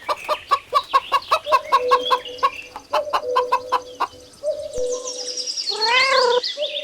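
Chickens clucking: a run of quick short clucks, about four a second, then after about four seconds a slower stretch with a longer call that rises and falls.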